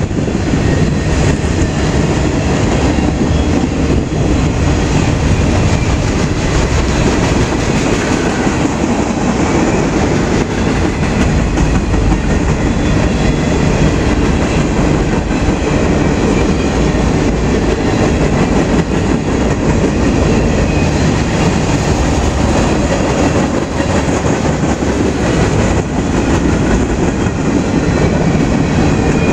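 Freight train cars rolling past at close range: a loud, steady noise of steel wheels on the rails.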